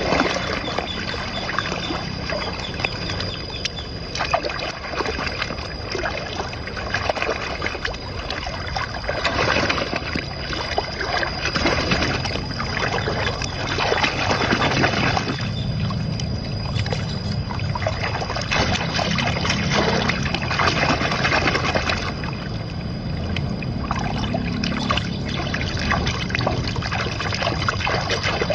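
Water trickling and sloshing in a continuous, uneven rush.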